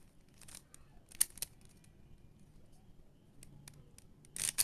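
Plastic clicks and clatter of a mirror blocks puzzle cube being turned by hand: a few sharp clicks about half a second and a second and a quarter in, faint ticks in between, and a quick run of turns near the end.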